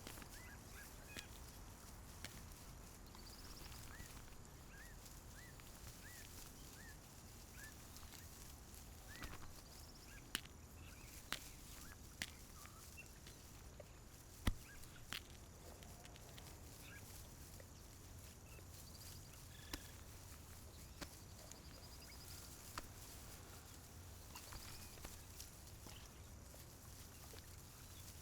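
Faint bird calls: a run of short, evenly spaced chirps in the first seconds, then scattered higher chirps. Light clicks and a low steady rumble run underneath.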